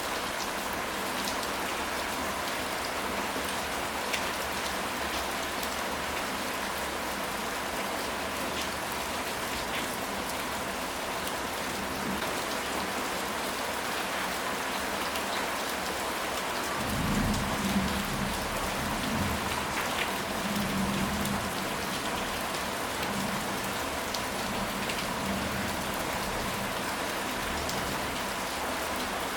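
Steady rain falling, a constant hiss with scattered drops ticking. About 17 seconds in, a low rumble of distant thunder rises and rolls on for about five seconds before fading back under the rain.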